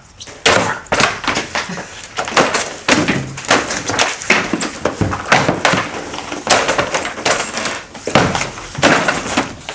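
A scuffle: many quick, irregular thumps and crashes, loud throughout.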